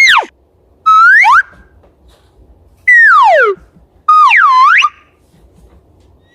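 Cartoon-style whistle sound effects, four pitch glides in turn: a short fall at the start, a held note that swoops up about a second in, a long falling slide near the middle, and a dip-and-rise swoop about four seconds in.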